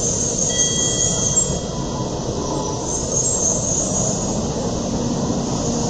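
N700A Shinkansen train rolling slowly alongside the platform as it comes to a stop: a steady rumble and hiss, with a thin high whine coming in about half a second in.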